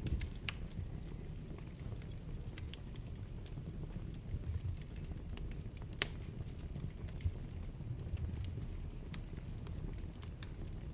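Wood fire burning in a fireplace: a steady low rumble with scattered crackles and pops, the sharpest pop about six seconds in.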